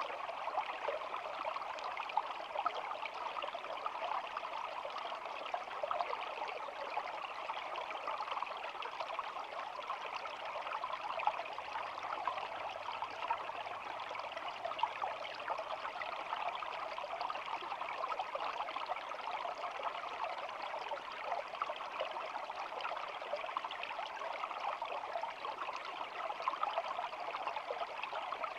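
Shallow stream flowing and babbling steadily, a continuous rush of running water with no breaks.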